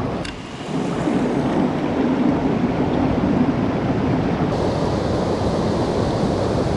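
Mountain stream water rushing steadily, an even continuous rush that dips briefly just after the start.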